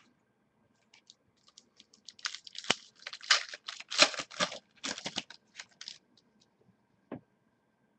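Crinkling and tearing of a trading card pack's foil wrapper, in a dense run of crackles over about four seconds, followed by a single click.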